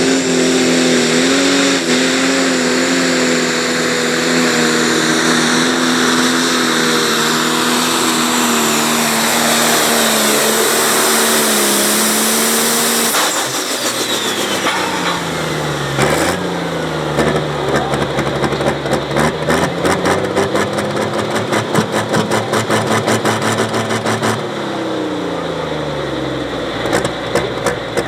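Turbocharged diesel pulling tractor at full throttle under load, its engine note held high and slowly sagging. About halfway through the revs drop sharply and a turbo whistle winds down. The engine then runs lower with rapid crackling, revs up briefly and falls off again near the end.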